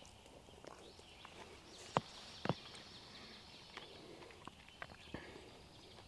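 A few sharp taps or clicks, the two loudest about half a second apart in the middle, with smaller ones scattered around them, over a faint high steady trill in the outdoor background.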